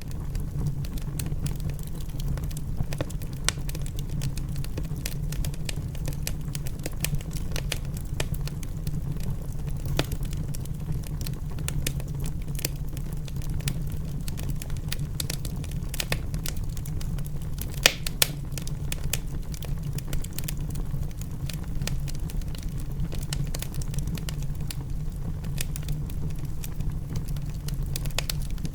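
Wood fire crackling in a fireplace, with irregular sharp pops over a steady low rumble and a couple of louder pops about eighteen seconds in.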